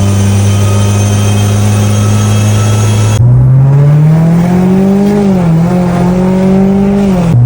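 Mitsubishi Lancer Evolution X's turbocharged four-cylinder engine, now running healthy after its rough cold start was fixed. A steady note gives way about three seconds in to revs climbing under acceleration, with a brief drop about five seconds in and another near the end.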